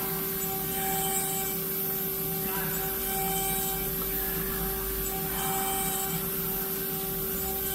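5-axis dental CAD/CAM milling machine milling an implant part: the spindle runs with a steady hum, and a higher cutting hiss swells and fades about every two seconds as the tool makes its passes.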